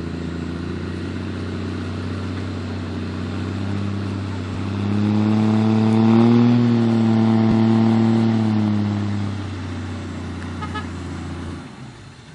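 Off-road 4x4's engine running at a steady pitch, then revving up and easing back down over about five seconds in the middle, louder as it revs. The engine sound drops away abruptly near the end.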